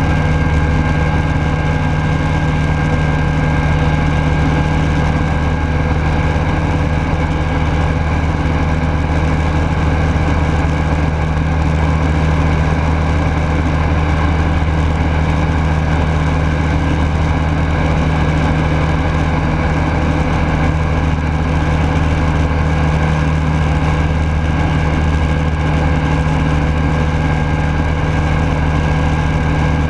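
Rans Coyote S6's Rotax 912S four-cylinder four-stroke engine and propeller running at steady power, heard from inside the cockpit, a loud constant drone with a deep hum and airflow noise.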